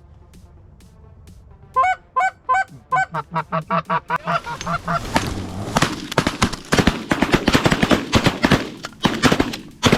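Canada goose calls clucking in a quick cadence that speeds up. They build into a frantic run of overlapping honks and clucks from several callers as geese are worked in close.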